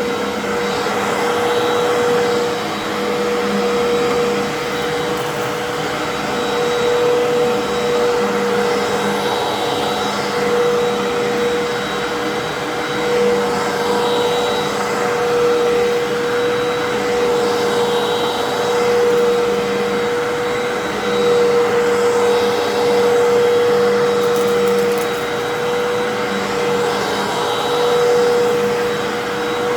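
Fantom Fury vacuum cleaner running on carpet: a steady motor drone with one strong steady tone, its loudness swelling and easing a little.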